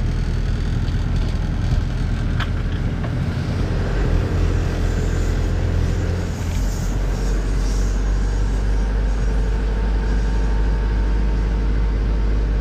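Vehicle on the move heard from inside, a steady low rumble of engine and road noise with a faint hum above it.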